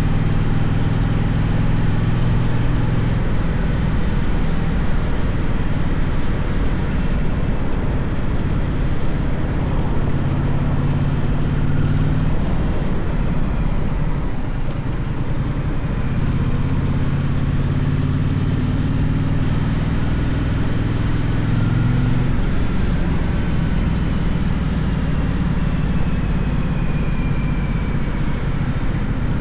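Gaokin GK1200 motorcycle engine running on the move, over a constant rushing road and wind noise. The engine note climbs a little past halfway and falls back about two-thirds of the way through.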